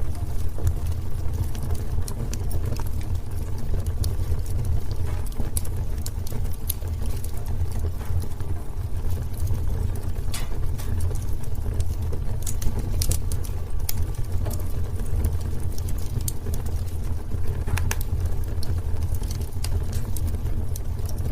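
Wood fire burning in a fireplace: a steady low rumble from the flames with scattered sharp crackles and pops, several louder pops coming close together about halfway through.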